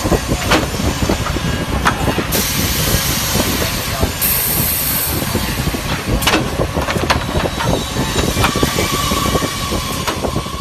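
Multi-head woodworking drilling machine running, with dense mechanical clatter and repeated sharp knocks, and a high hiss that starts about two seconds in and lasts about three seconds.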